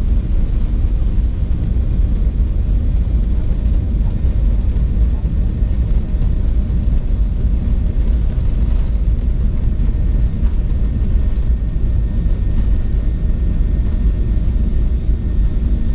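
Steady low rumble inside the cabin of a Boeing 737-800, with faint steady whining tones higher up.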